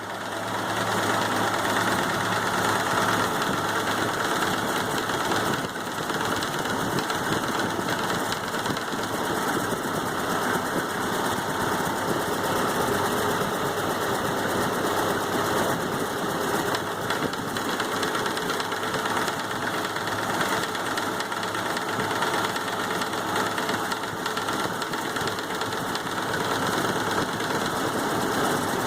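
Model A Ford four-cylinder flathead engine running steadily with a knock.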